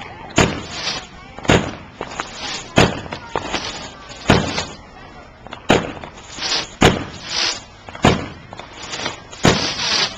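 Consumer aerial fireworks bursting overhead: about eight sharp bangs a little over a second apart, several followed by a crackling hiss as the shells' crackle effects go off.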